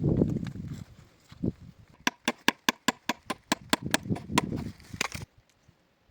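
A quick, even run of sharp taps or knocks, about five a second, that stops abruptly after about three seconds, following a low rumbling noise at the start.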